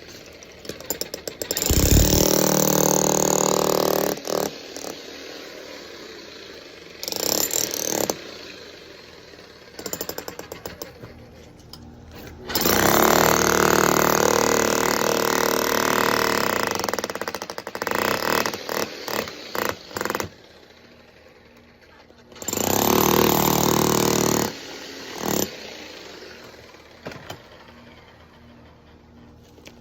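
Jackhammer breaking up sidewalk concrete in bursts of a few seconds, with short stabs of hammering between them.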